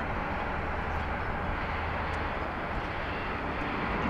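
Boeing 787-9 airliner's jet engines on landing approach: a steady rushing engine noise that begins to grow louder near the end.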